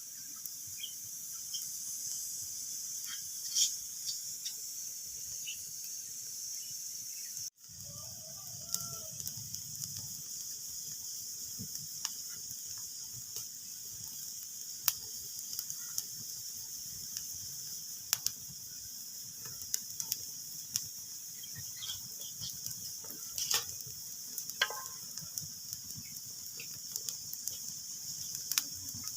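Wood fire crackling in a fireplace: a steady hiss with scattered sharp pops. The sound cuts out for an instant about seven seconds in.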